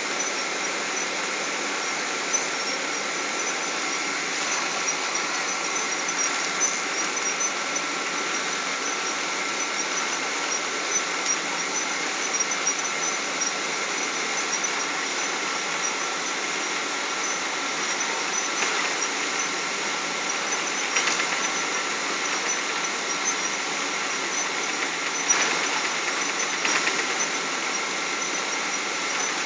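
Boeing 777 cabin noise: a steady rush of engine and airflow noise with a thin, steady high whine running through it. A few brief rattles come in the second half.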